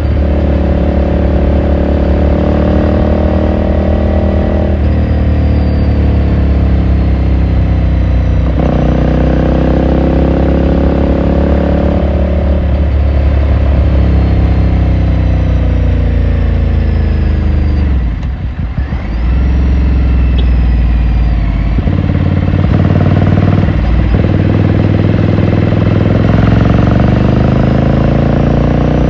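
Ducati Scrambler Sixty2's 399 cc air-cooled L-twin on the move, raw exhaust sound. The engine note repeatedly climbs under throttle and drops sharply at each upshift, several times, with a short throttle-off lull about two-thirds of the way through before it pulls again.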